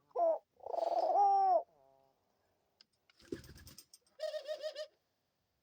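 Pet hen dove calling: a short call, then a longer call of about a second that rises slightly, and near the end a quick warbling trill, with a brief rustle between. She is hormonal and guarding an egg.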